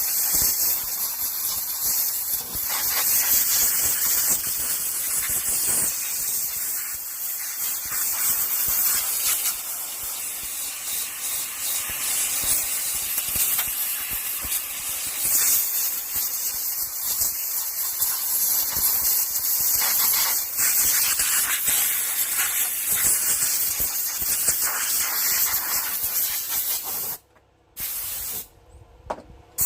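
Compressed air hissing steadily from an air-hose nozzle as grime is blown off a chainsaw, with two short pauses near the end as the nozzle is let off.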